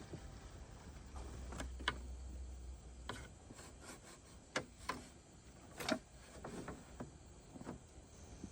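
A series of irregular sharp knocks and clicks of varying strength, the loudest about two seconds in and near six seconds, with a low rumble underneath in the first few seconds.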